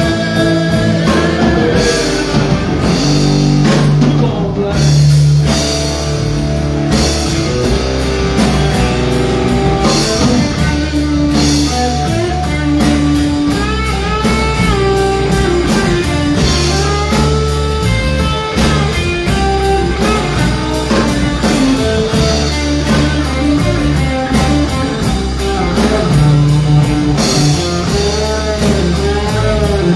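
Live band playing rock music: electric guitar over bass and drum kit, the guitar line full of bending notes through the second half.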